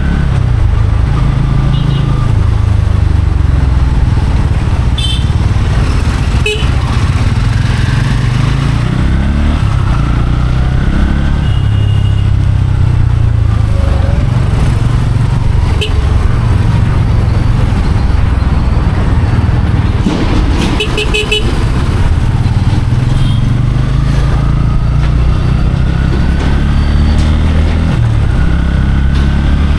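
Motorcycle riding through city traffic, its engine giving a steady low rumble that rises and falls with the throttle. Horns honk briefly several times, with a cluster of toots about two-thirds of the way in.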